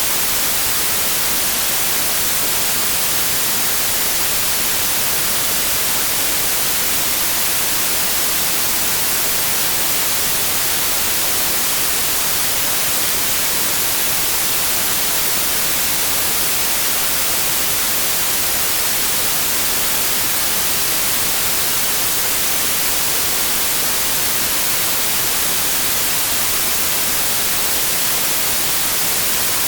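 Steady, loud white noise: an even, unchanging hiss.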